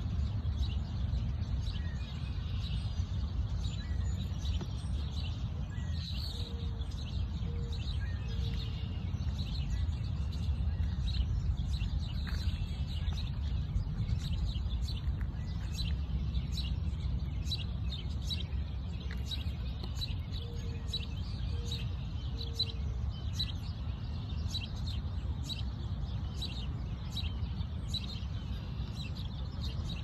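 Songbirds chirping with short, high calls, more often in the second half, over a steady low rumble. Twice, a short series of low notes is heard.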